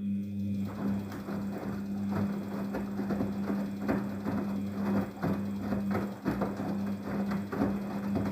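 Daewoo DWD-FT1013 washing machine on its hand-wash cycle: the motor starts suddenly and hums steadily as it turns the drum, with irregular swishing and knocking from the water and laundry inside.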